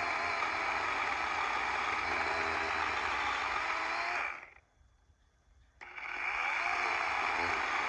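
DeWalt 20V battery chainsaw running at full speed, cutting into a hickory trunk. The motor stops about four and a half seconds in, leaving near silence, then spins back up with a rising whine about a second later and keeps cutting.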